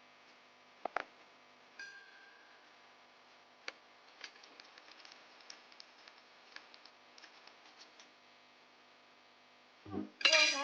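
Scattered light clicks and ticks over a faint steady hum, with one sharper click about a second in. A loud burst of voice comes in near the end.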